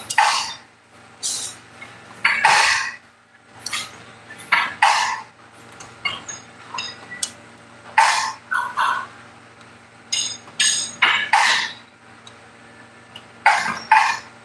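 Steel winding bars clinking against the winding cone of a garage door torsion spring while the spring is wound: a dozen or so sharp, irregular metallic clinks, some ringing briefly, over a steady low hum.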